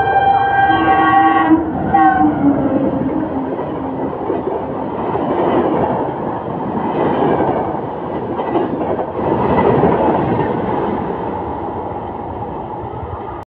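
A WAP-7 electric locomotive's horn sounds for about a second and a half, with a short second blast soon after. Then the Shatabdi Express coaches pass at speed, with steady wheel and rail noise that swells twice and fades before cutting off near the end.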